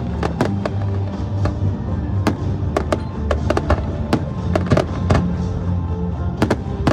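Fireworks bursting in quick succession, several sharp bangs and crackles a second, over music with steady low sustained notes.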